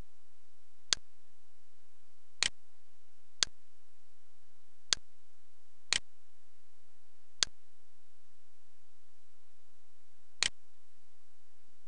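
Computer mouse clicks: seven short, sharp clicks spaced irregularly, a few of them double, over a steady hiss.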